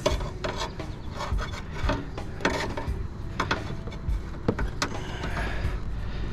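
Irregular clicks, knocks and some scraping of parts being handled and pulled apart as a PTAC heater/air-conditioner unit is dismantled by hand.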